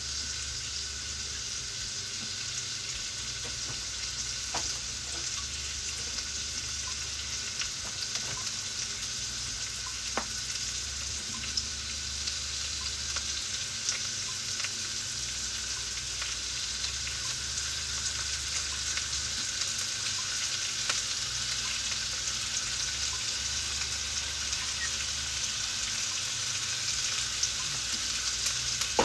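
Beef and Japanese long onion sizzling steadily in a frying pan on the stove, with occasional small pops, growing slightly louder towards the end.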